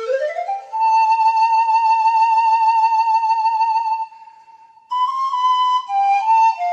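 Pan flute melody. A note slides up into a long held note with vibrato, and the sound drops away briefly about four seconds in. A new phrase of short stepping notes follows.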